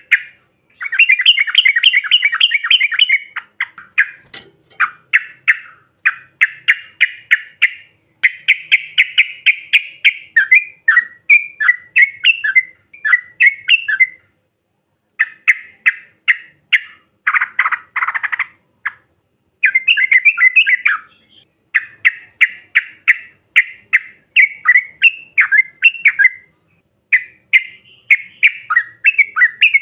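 A chorus of yellow-vented bulbuls (trucukan) singing: loud, rapid chattering phrases and bubbling trills, one after another, with only brief pauses.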